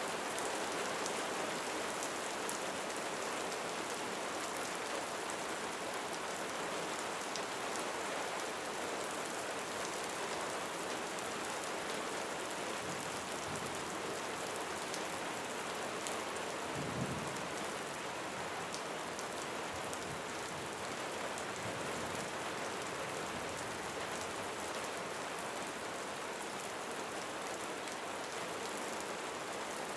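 Steady rain falling on a roof, with scattered individual drop ticks. A low rumble of distant thunder swells in the middle, peaking briefly about halfway through.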